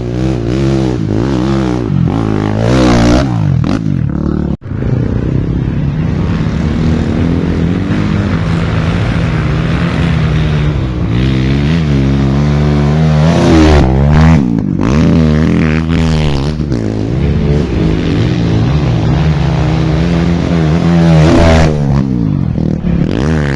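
Off-road motorcycle engines revving hard again and again, the pitch rising and falling with the throttle, with a short cut in the sound about four and a half seconds in.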